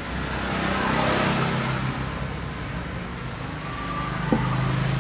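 A motor vehicle engine running as a steady low hum, growing louder about a second in and easing off, with a single sharp click near the end.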